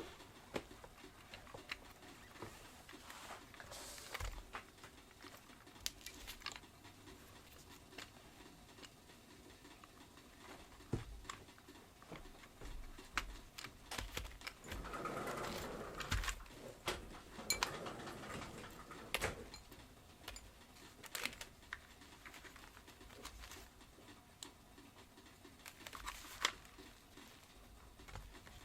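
Faint hand-work sounds of small plastic vacuum-cleaner parts being handled: scattered clicks and taps, with a longer stretch of rubbing and rustling around the middle.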